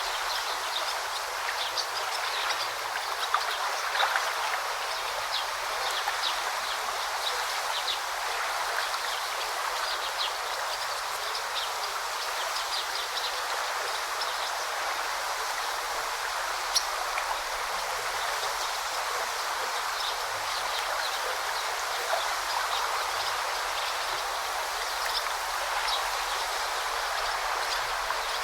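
A forest river flowing steadily with an even rushing sound, with short high bird chirps scattered over it.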